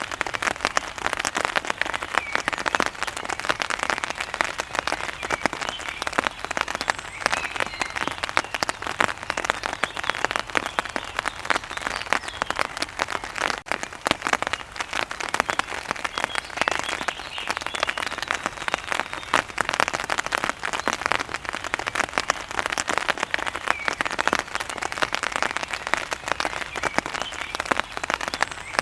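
Steady rain, a dense, even patter of close drops striking a surface.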